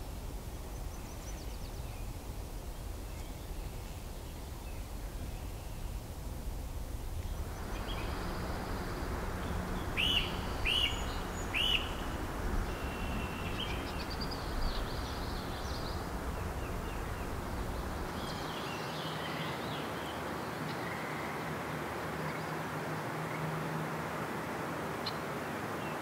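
Birds calling over a steady background hiss of outdoor noise: three loud, quick sliding notes near the middle, followed by scattered softer calls. The hiss gets brighter about a third of the way in.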